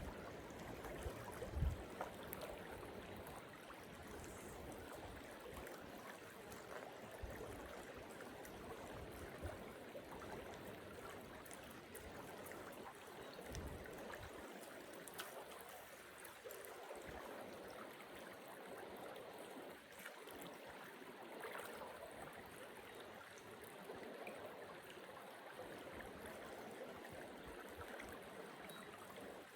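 A small rocky creek running, a faint steady rush and trickle of water over stones, with a few soft low bumps, the strongest about two seconds in.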